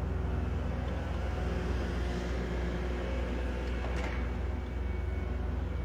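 Steady low rumble of distant engines with a faint hum, with one light click about four seconds in.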